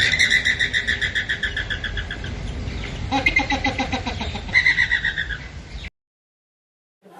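Bird calls: fast, rapidly pulsed trills, with a lower-pitched pulsed call about three seconds in and another high trill near the end. The calls stop about six seconds in.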